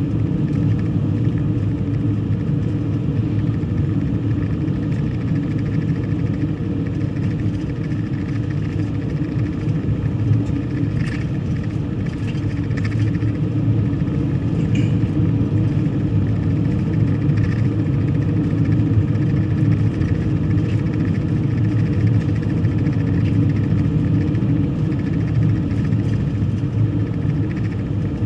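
Steady low rumble of a car driving, road and engine noise, with a few faint ticks about halfway through.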